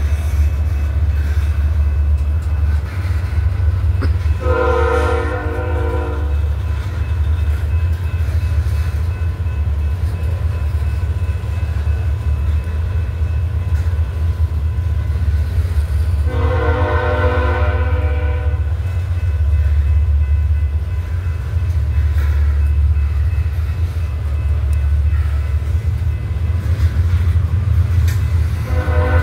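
Freight train rolling past a grade crossing with a steady low rumble. A train horn sounds two blasts of about two seconds each, roughly twelve seconds apart, and a third begins right at the end.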